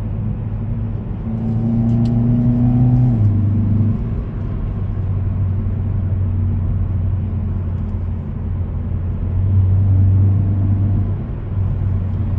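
2018 Hyundai Elantra 2.0-litre four-cylinder engine and intake heard from inside the cabin while driving, with a steady hum over road noise. The engine note rises briefly and drops away about three seconds in, and again near ten seconds in.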